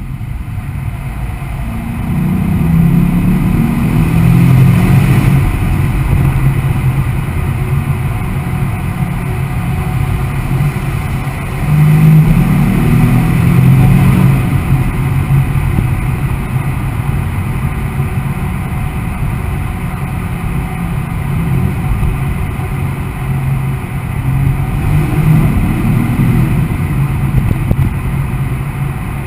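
Mercedes-AMG E63 S 4Matic's twin-turbo V8 running hard at speed, pulling through several bursts of acceleration: the engine swells louder about two seconds in, jumps up sharply near the middle, and swells once more near the end.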